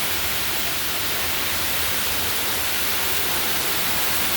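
Heavy hurricane rain pouring steadily, an even hiss.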